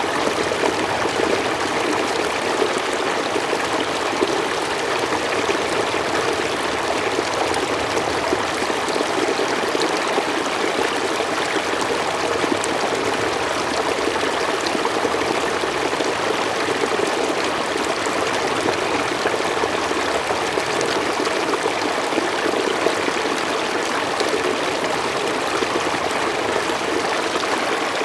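Mountain stream flowing in a steady, even rush, with small splashes and trickles.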